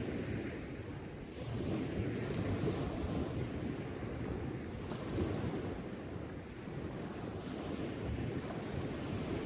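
Wind rumbling on the microphone, rising and falling in gusts.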